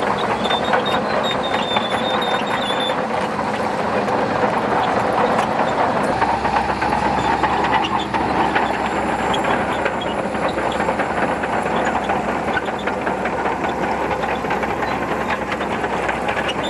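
Shantui DH17C2 crawler bulldozer working: its diesel engine running under load with a steady rattling clank of the steel tracks. The low rumble of the engine grows stronger about six seconds in.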